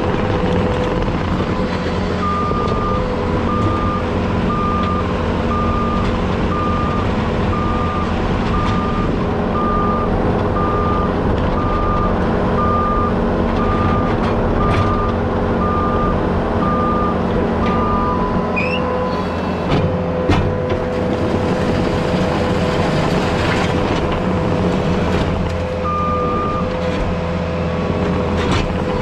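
Heavy diesel equipment running steadily while its reversing alarm beeps about once a second. The beeping stops about two-thirds of the way through and starts again near the end.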